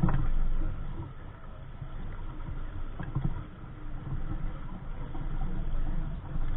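Wind rumbling on the microphone and waves splashing against the hull of a small sailboat under way. There are louder surges at the start and about three seconds in.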